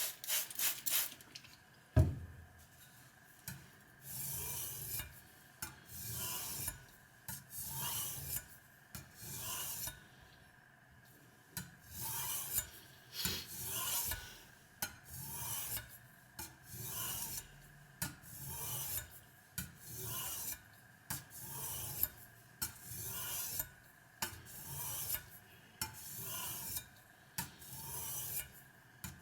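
A kitchen knife blade scraping in repeated strokes across a wet Spyderco medium aluminium-oxide bench stone, about one stroke a second, with a short pause near the middle. A sharp knock about two seconds in is the loudest sound.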